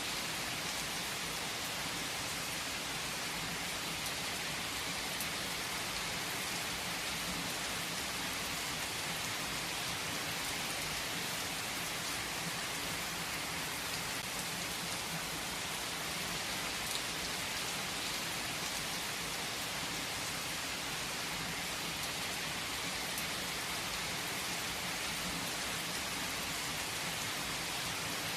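Steady rainfall on a hard surface, an even hiss with scattered drop ticks.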